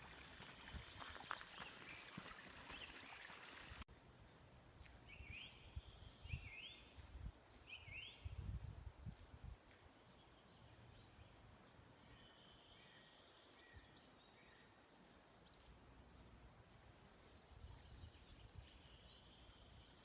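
Faint songbirds singing: a few quick rising notes, then high trills. A steady hiss in the first few seconds cuts off suddenly, and there are a few low thuds.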